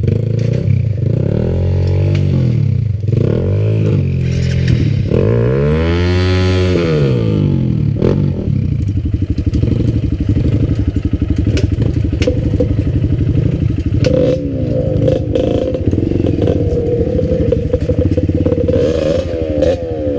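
Enduro dirt bike engine revving up and down while riding, with one strong rev about six seconds in and steadier running later, over a scatter of clicks and clatter.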